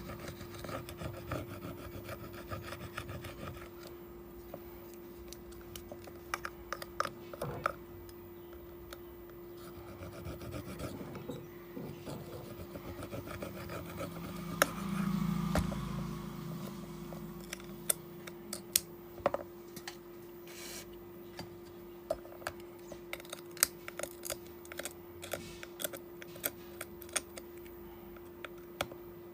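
Tools scraping and rubbing on a phone during a display repair, with scattered small clicks and taps. A steady low hum runs underneath, and a louder scrape comes about halfway through.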